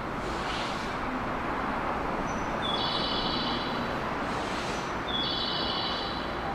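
A JR West 221 series electric train standing at the platform with its doors open: a steady hum from the stopped train and platform bustle. Two short high tones, each about a second long, sound about three and five seconds in.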